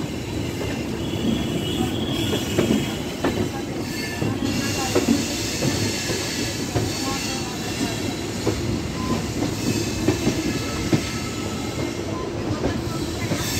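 Kerala Superfast Express coaches rolling along the track as the train departs. There is a steady heavy rumble, rapid irregular clicking from the wheels, and a faint high wheel squeal now and then.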